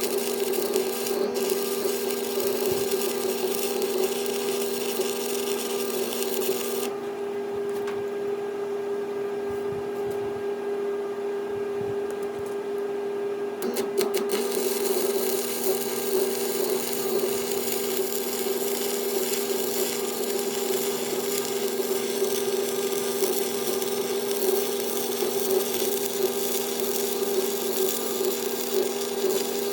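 Angle grinder grinding steel, its motor's steady whine running under a harsh rasping hiss. About seven seconds in the rasp drops away for roughly seven seconds while the motor keeps running, then the grinding resumes.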